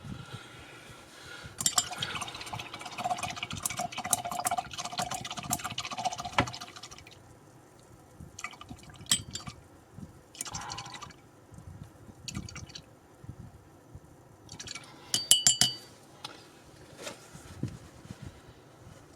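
A paintbrush swished and tapped in a pot of rinse water, a few seconds of splashy, clicky sloshing. It is followed by scattered small clicks and a brief cluster of glassy clinks.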